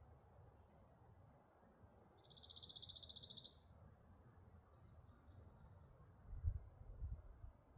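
A songbird gives a rapid, even trill about two seconds in, then a second, higher series of quick notes over faint forest background. Near the end come two low thumps.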